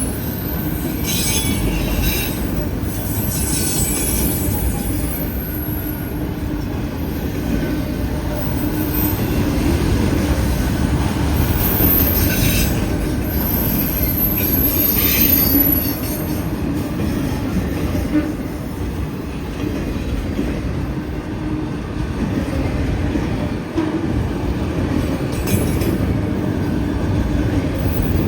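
A long freight train's cars rolling past at steady volume, with wheels squealing high now and then, loudest about halfway through.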